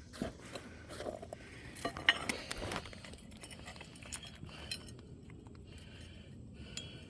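Roofing nails and tools clinking and tapping on a shingle roof as a nail is set and driven, with one sharper knock about two seconds in.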